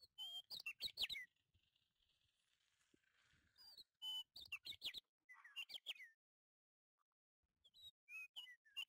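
A small bird chirping in quick clusters of short, sharply falling chirps: about a second in, again around four to six seconds, and near the end, with silence between.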